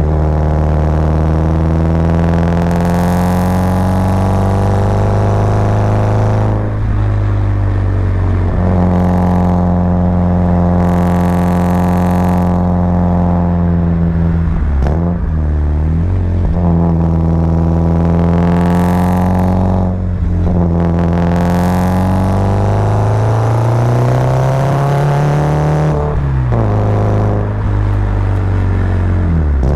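Subaru Impreza WRX's turbocharged boxer flat-four pulling hard uphill, its pitch climbing under acceleration and dropping back at each of several gear changes or lifts of the throttle.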